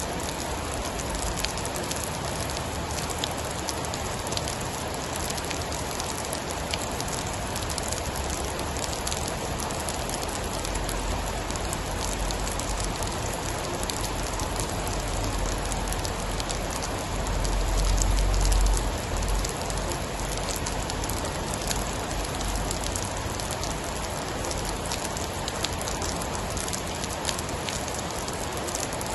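Steady heavy rain with sharp crackles of a wood fire. A low rumble of distant thunder swells and fades about eighteen seconds in.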